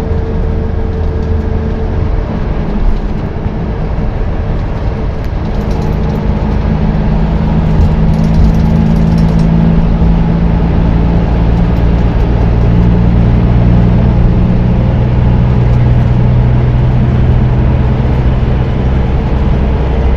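Rear-mounted diesel engine of a Scania high-deck coach heard from the back seat inside the cabin, running under load as the coach drives. Its note climbs about five seconds in and settles lower and steady in the second half, over road noise.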